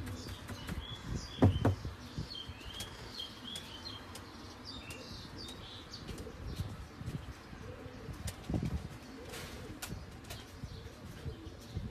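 Birds chirping in short, high, gliding notes over the first few seconds, with two dull thumps about a second and a half and eight and a half seconds in.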